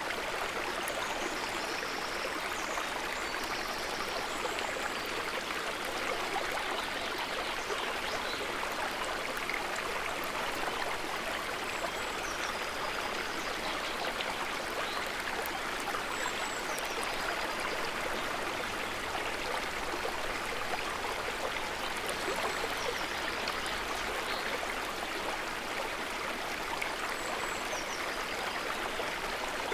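River water running steadily, an even, unbroken flow, with a few faint high chirps now and then.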